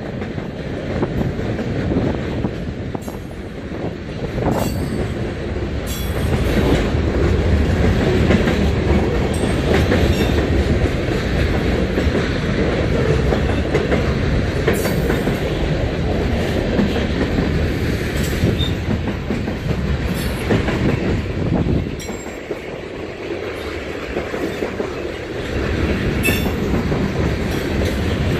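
Freight cars of a mixed freight train rolling past at close range, with a steady rumble of steel wheels on rail and clickety-clack over the rail joints. Short high wheel squeals cut in now and then.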